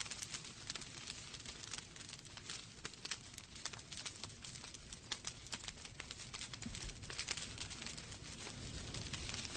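Wood fire burning in a fireplace: logs crackling and popping in a steady stream of irregular small snaps over a low rumble of flame.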